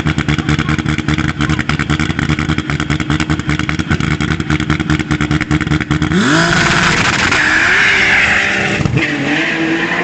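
Turbocharged BMW E30 drag car with an E34 M5 straight-six, idling with a choppy, uneven beat, then about six seconds in revving hard as it launches, the pitch climbing steeply. Near the end the pitch drops briefly and climbs again, as at a gear change.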